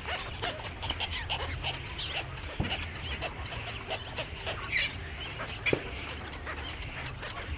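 Many birds calling and chirping at once in short, overlapping calls, over a steady low hum.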